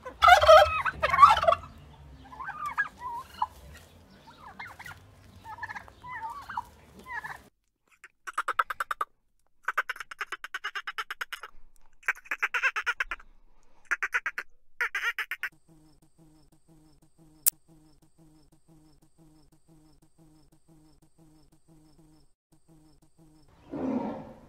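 Turkey gobbling, loud rattling calls over the first seven seconds or so. Then a dolphin's rapid click trains come in about eight short bursts, followed by a faint low pulsing hum. Right at the end a tiger's roar begins.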